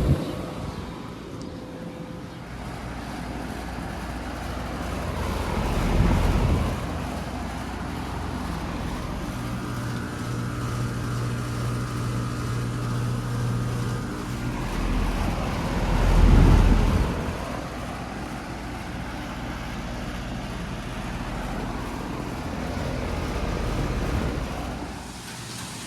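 2019 Carrier Performance Series heat pump outdoor unit running in cooling mode, a steady hum of compressor and condenser fan with a low tone that stands out for a few seconds. Vehicles pass twice, swelling up and fading away.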